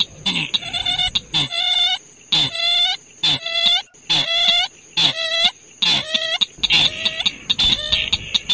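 Recorded bird calls played as a lure for night trapping: a rapid series of short, harsh, rising-and-falling calls, one or two a second, with sharp clicking notes between them and a steady high whine underneath.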